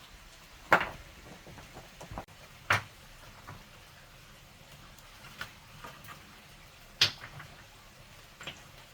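Sharp knocks of hard objects striking or being set down: three loud ones, about a second in, near three seconds and at seven seconds, with lighter clicks between.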